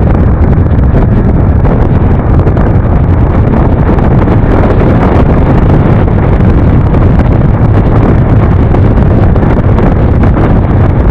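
Steady, loud wind rushing over the microphone of a moving Yamaha NMAX scooter, with the scooter's running and road noise underneath.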